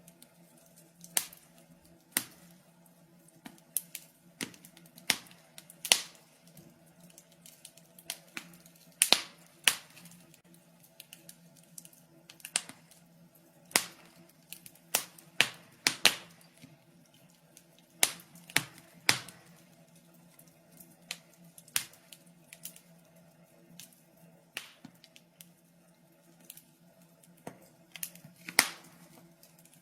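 Fire in a fireplace crackling: irregular sharp pops and snaps, some loud and some faint, coming unevenly every second or so, over a faint steady low hum.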